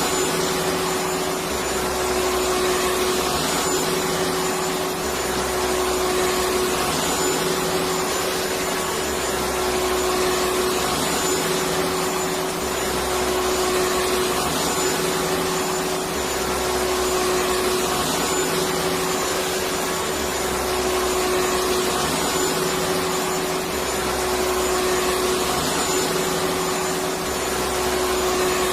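Electric vacuum cleaner running continuously: a steady whooshing motor noise with a steady whine, over a low hum that swells about every two seconds.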